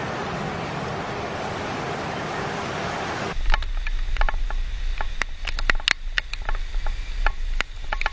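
Steady rush of a flooded river's water, cutting off suddenly about three seconds in to a low rumble with scattered sharp clicks.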